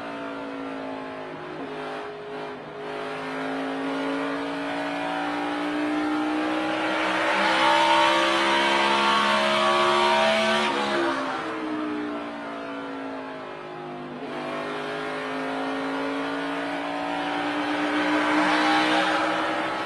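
NASCAR Cup car's V8 engine heard from inside the car at race speed. It pulls hard with a slowly rising pitch, drops off sharply about halfway through as the driver lifts for a turn, then comes back on the throttle and climbs again.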